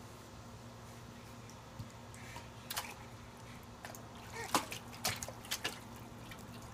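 Water splashing and dripping as a shirt is washed by hand in a tub, in a handful of short irregular splashes through the middle and latter part, over a steady low hum.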